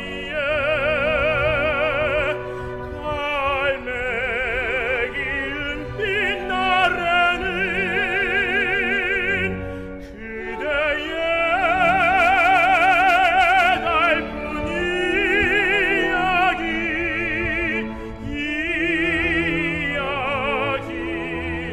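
Background music: an operatic voice singing long held notes with a wide, even vibrato over classical accompaniment.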